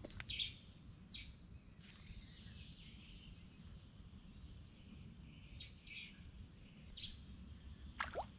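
Faint short bird chirps, about seven of them scattered over a few seconds, one sweeping downward near the end, over a steady low outdoor background noise.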